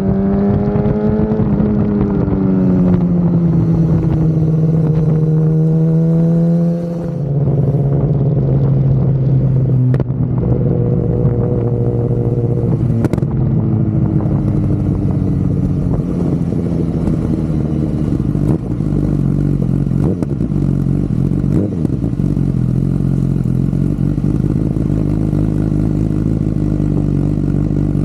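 BMW S 1000 RR race bike's in-line four engine running under way, its pitch rising and falling with the throttle and dropping sharply about seven seconds in.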